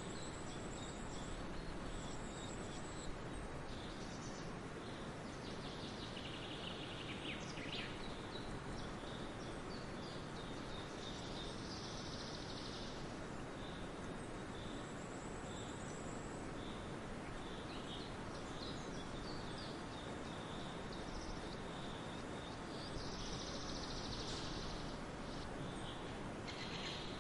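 Steady outdoor background hiss with faint, scattered bird calls and short high chirping trills now and then.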